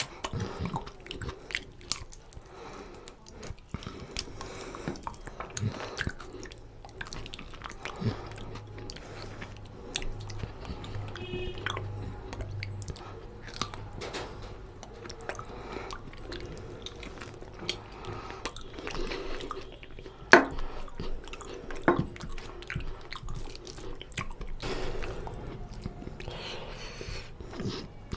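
A person chewing and biting mutton paya curry and rice eaten by hand, close to the microphone, with many short mouth clicks. A single sharp click about twenty seconds in is the loudest sound.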